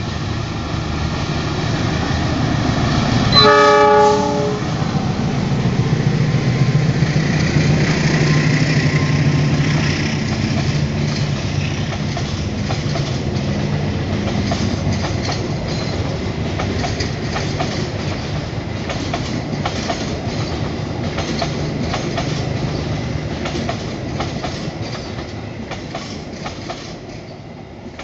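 A passenger train hauled by a diesel locomotive passes close by. The locomotive gives one horn blast about a second long a little over three seconds in, and its diesel engine drone is loudest a few seconds later as it goes by. Then come the rhythmic clickety-clack of the carriage wheels over the rail joints, fading near the end.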